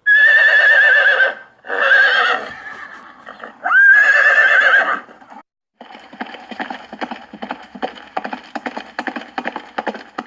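A horse neighing three times, each a wavering whinny of about a second. After a short pause come its hooves clip-clopping in a rapid, steady run.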